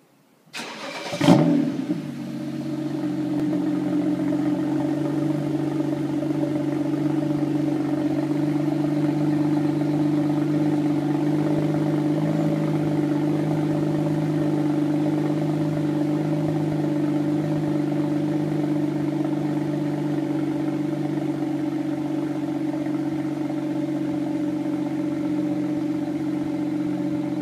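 BMW E93 3 Series cold start. The starter cranks briefly and the engine catches with a loud rev flare about a second in, then settles into a steady, fast cold idle that eases slightly over time.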